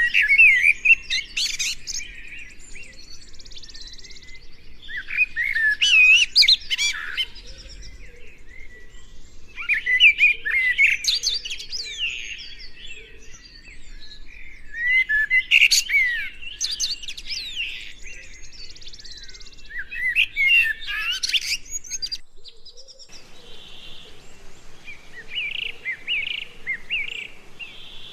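A songbird singing loud, rapid, warbling phrases, one song every five seconds or so. Near the end the recording cuts to fainter, quicker chirping from other birds.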